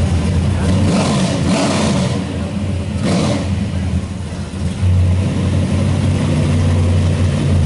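Car engine running with a low rumble, revved briefly twice in the first few seconds.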